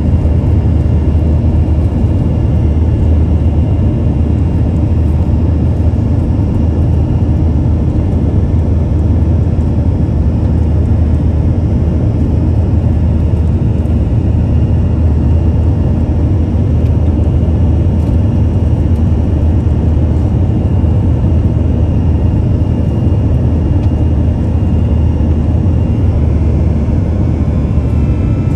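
Airbus A321-200 jet engines and airflow heard from inside the passenger cabin: a loud, steady, deep roar with a faint high whine above it.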